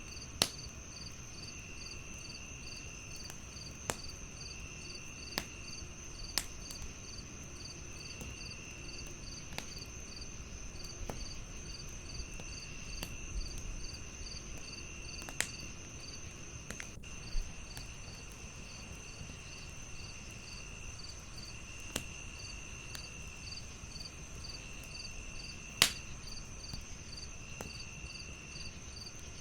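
Crickets chirping without pause in several overlapping layers: a high steady trill, a rapid pulsing chirp, and a lower trill coming in bursts of about a second. Over them a wood fire crackles with sharp pops every few seconds, the loudest near the start and a few seconds before the end.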